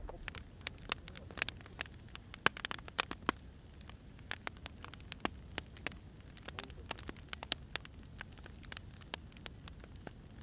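Firewood burning, with irregular sharp crackles and pops, several a second, over a steady low rumble of the fire.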